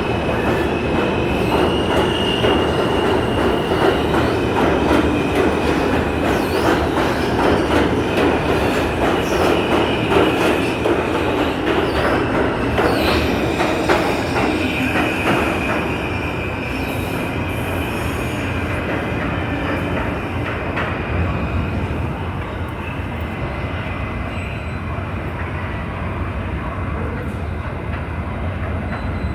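New York City subway train running through the station, its wheels squealing in thin high tones over a steady rumble, with rapid clicks from the rail joints. The noise eases off a little about halfway through.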